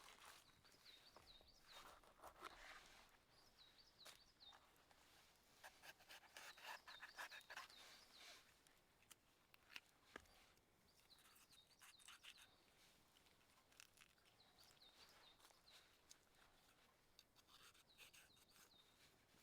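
Faint woodland ambience: a small bird calls in runs of short, quick, high chirps, with soft rustling and a few light clicks.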